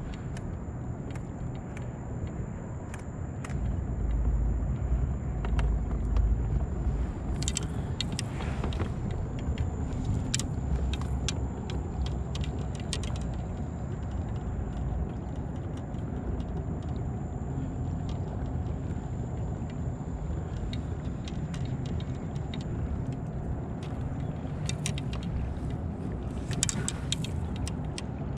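Battery-powered kayak motor running steadily under way, a low hum with a thin high whine over it and rushing water underneath; the rush swells for a few seconds about four seconds in.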